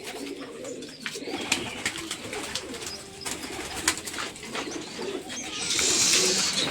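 Domestic pigeons cooing in a small loft, with scattered sharp clicks and taps. A brief loud rushing noise comes near the end.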